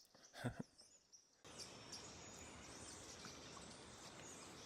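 Near silence, then a faint steady rushing outdoor noise that cuts in abruptly about a second and a half in, with faint high bird chirps.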